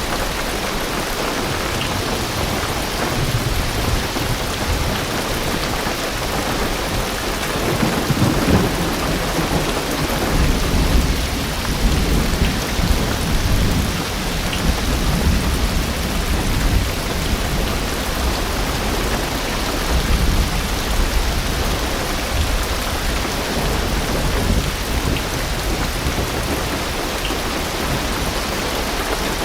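Heavy rain pattering steadily on a car's roof and windows, heard from inside the car, with a long low thunder rumble rolling in about eight seconds in and swelling several times before fading near the end.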